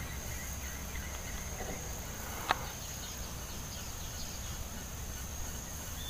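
Steady, high-pitched drone of rainforest insects, cricket- or cicada-like, with a single sharp click about two and a half seconds in.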